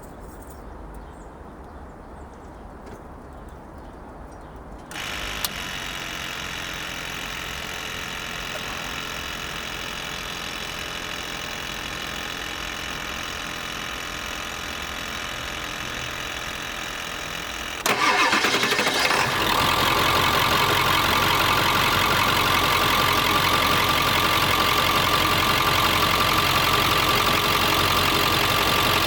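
A steady hum comes on about five seconds in. Later in the clip the 7.3 Powerstroke V8 turbo-diesel cranks briefly, fires and settles into a steady idle: its first start after an oil change, with the oil at the add mark.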